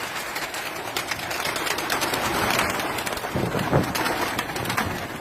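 Domestic pigeons cooing, with scattered clicks and scuffling throughout and a few low coos about three and a half seconds in.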